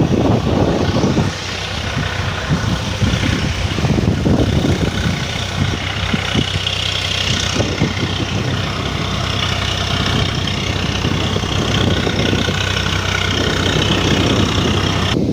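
A motor engine running steadily with a low hum, amid a steady noisy rush.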